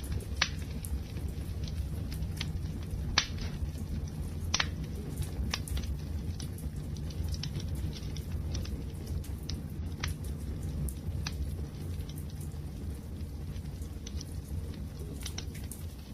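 Wood fire burning with a steady low roar of flames and irregular crackles, with a few sharper pops, the loudest about three seconds in.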